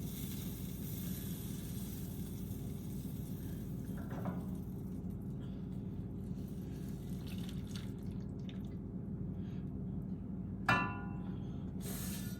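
Steady low kitchen hum with faint handling noises, and a single short ringing clink of glass or dishware about ten seconds in.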